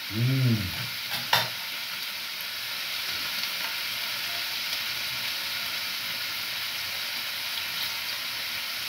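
Chunks of liver sizzling steadily as they fry in a pan, with a single sharp clink about a second and a half in.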